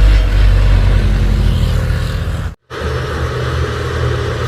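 A loaded Isuzu truck's diesel engine pulling uphill, loud and low at first and easing over the first two seconds. The sound cuts out abruptly about two and a half seconds in, then a vehicle engine's steady running resumes.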